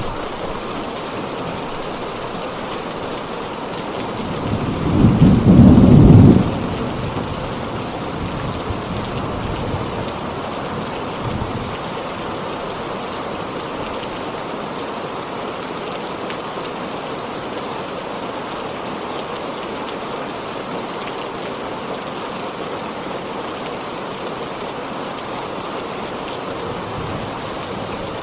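Heavy rain falling steadily, with one loud low rumble of thunder about five seconds in that swells and fades over about two seconds.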